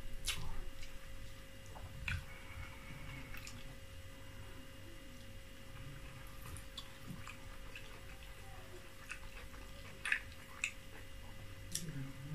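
Close-up sounds of a person eating oatmeal fufu with soup by hand: chewing with scattered wet clicks and mouth smacks, over a faint steady hum.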